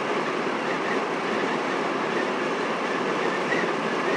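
Steady road and tyre noise inside a moving vehicle's cabin, an even rushing hiss with no engine note standing out.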